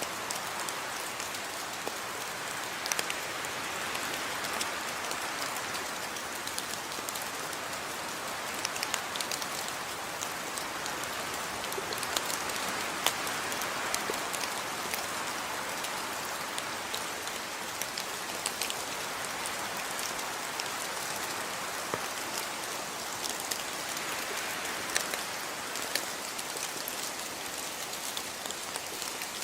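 Steady rainfall: an even hiss of rain on a surface, with many separate drops ticking sharply in it.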